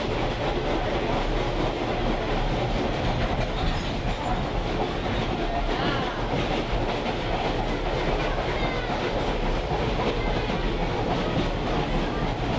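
Caboose riding over the rails: a steady rumble and rattle of wheels on track, with clickety-clack over rail joints.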